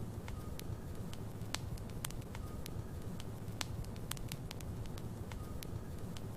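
Wood logs burning in a fireplace, crackling with frequent sharp pops over a low steady rumble of the flames.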